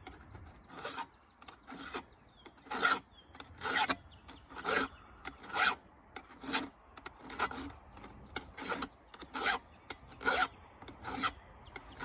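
Flat file rasping down the rakers (depth gauges) of a chainsaw chain through a raker gauge, in a dozen or so separate strokes, about one a second.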